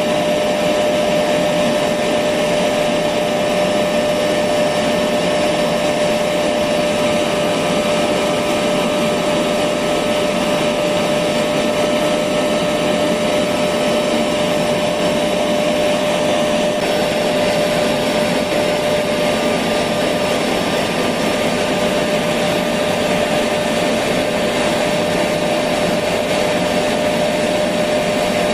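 Electric vacuum cleaner running steadily: a constant rushing noise with one steady whine.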